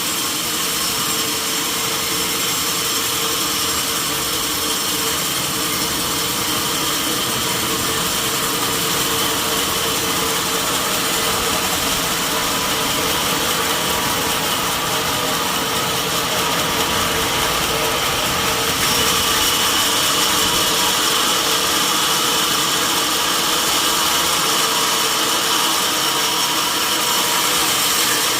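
Sawmill saw running steadily through a mahogany log, a continuous dense machine noise with a held whine, getting a little louder and higher about two-thirds through.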